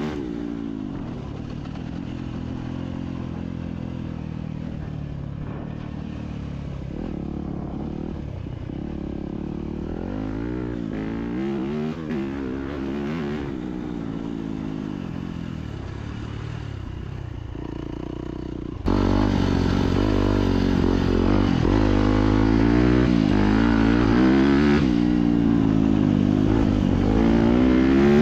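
Four-stroke dirt bike engine being ridden, the revs rising and falling again and again through the gears. It becomes suddenly louder about two-thirds of the way through.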